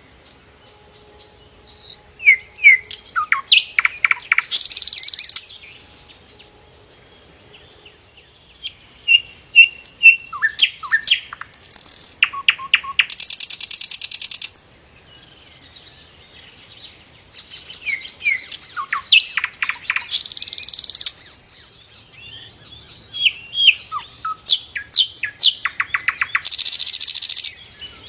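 Sikatan londo singing in four phrases. Each is a quick run of chirps and downward-slurred whistles that ends in a harsh, high, buzzing rattle lasting about a second.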